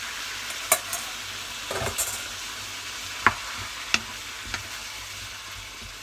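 Vegetables and freshly added chopped tomatoes sizzling as they sauté in butter and olive oil in a pan, with a steady hiss. A utensil knocks and scrapes against the pan about five times as it is stirred.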